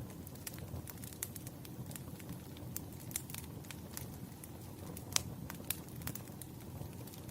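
Crackling bonfire: a steady low rumble of burning wood with frequent irregular sharp pops and snaps, the loudest pop about five seconds in.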